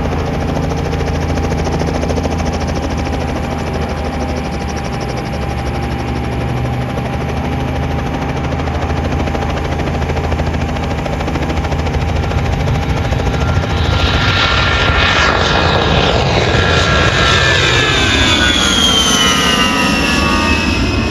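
Aircraft engine running steadily, then an aircraft passes low by about two-thirds of the way in, growing louder, its tone sweeping and falling in pitch as it goes past.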